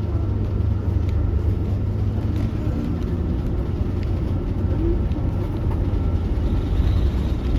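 Hyundai Universe Elegance CNG coach's engine running with a steady low rumble, with no rise or fall in pitch.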